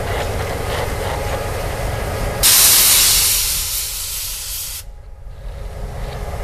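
Freight train of covered hopper cars rolling past with a steady low rumble. About two and a half seconds in, a loud hiss of compressed air venting from the passing Canadian Pacific diesel locomotive starts suddenly, lasts about two seconds and cuts off.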